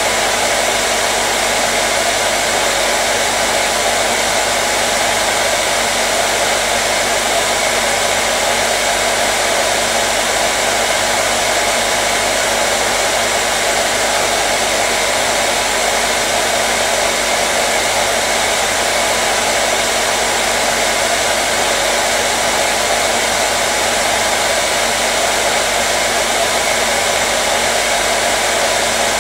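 Hair dryer running steadily, a loud even blowing noise with a faint motor hum.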